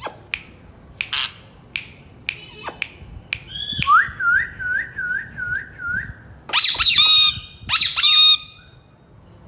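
Pet parrot calling: short chirps and clicks, then a run of about six quick whistled notes, then two loud harsh screeches a little over a second apart.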